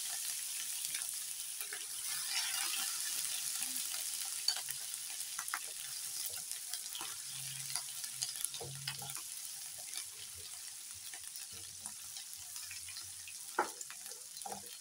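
Chopped onions frying in hot oil with cumin seeds and ginger-garlic paste, a steady sizzle that slowly eases off. A spatula stirs them around the pan, adding scattered light clicks and scrapes.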